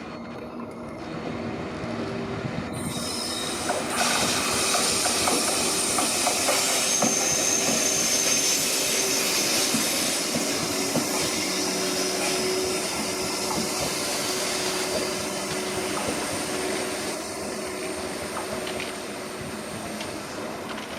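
Train passing with its wheels squealing in high steady tones over the rumble. It grows louder over the first few seconds and fades slowly toward the end.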